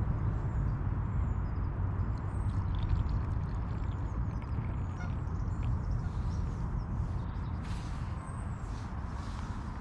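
Steady low rumbling noise with faint, high-pitched small-bird chirps scattered over it.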